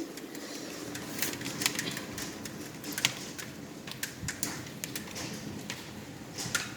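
Heavy rain falling, with irregular sharp taps of drops striking a nearby surface.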